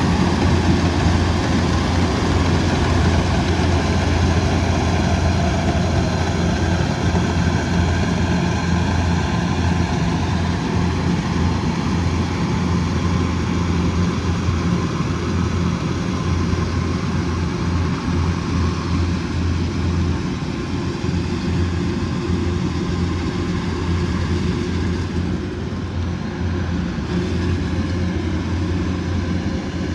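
Combine harvester's diesel engine running steadily with a deep, even drone, growing gradually a little quieter over the second half.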